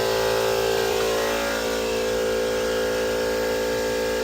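Air compressor running with a steady mechanical hum, then cutting off abruptly near the end.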